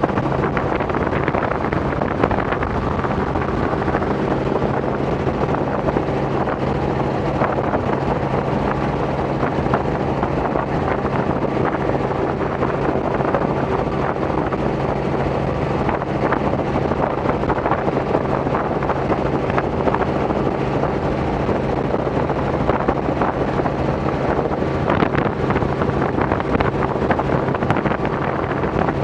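Robinson R44 helicopter in cruise flight: a steady, unchanging drone of its piston engine and rotor, with wind noise on the microphone.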